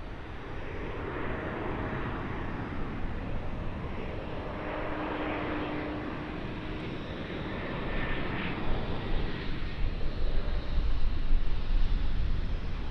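Airliner engines running as a plane passes near the runway, a steady rushing sound with a faint whine that grows louder and rougher with low rumble near the end.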